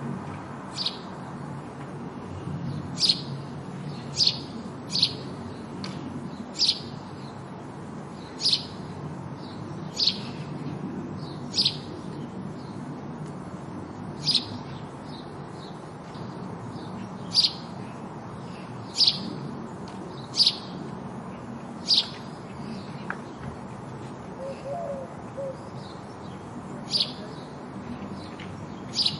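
House sparrow calling with single short chirps, each falling sharply in pitch, repeated every one to two seconds over a steady low background noise.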